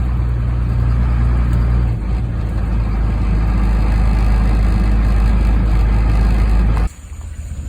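Medium-duty wrecker's truck engine running steadily, a deep even hum that shifts slightly about two seconds in, then drops off abruptly near the end to a much quieter background.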